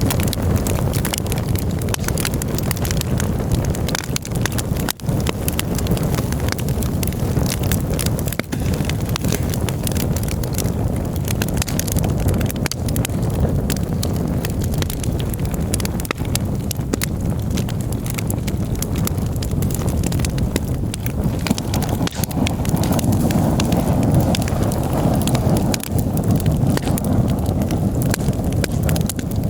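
Campfire crackling and popping steadily, dense small snaps over a low rumble.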